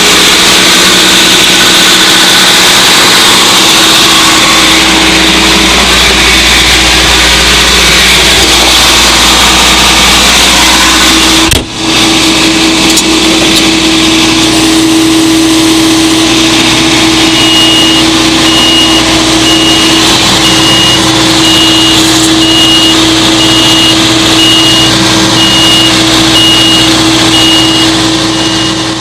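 An engine of the machinery used for setting poles runs steadily and loudly, with a brief dropout about twelve seconds in. A faint high-pitched beeping repeats at a steady pace through the second half.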